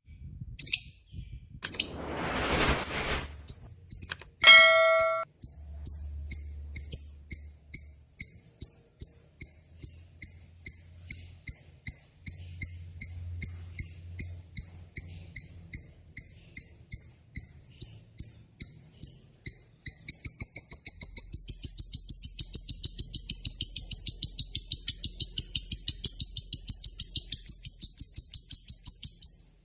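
Lovebird repeating sharp, high chirps about twice a second, then breaking into a long, rapid chattering run, the 'ngekek panjang' call, from about two-thirds of the way in. Near the start there is also a brief rushing noise and a short steady tone.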